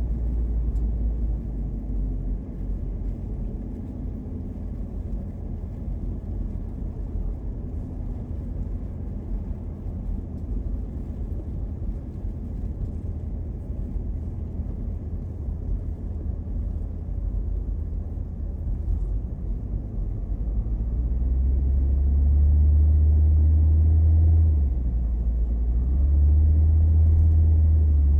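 Low, steady rumble of a car driving, road and engine noise heard from inside the cabin; it grows louder about two-thirds of the way in, dips briefly, then comes back.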